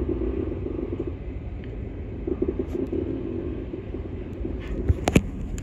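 Steady rumble of a moving train, its wheels running on the rails, with two sharp clicks in quick succession about five seconds in.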